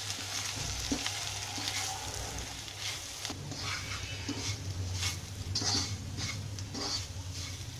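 Boiled taro (arbi) pieces frying in oil in a non-stick wok, with a steady sizzle, while a wooden spatula stirs and turns them, making repeated short scrapes and taps against the pan.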